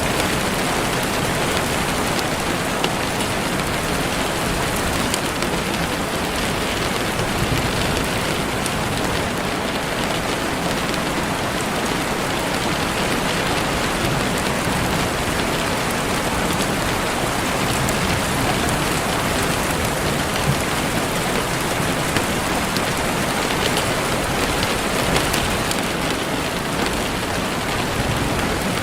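Heavy rain falling steadily on leaves and the forest floor, an even hiss of rain with a few louder individual drops.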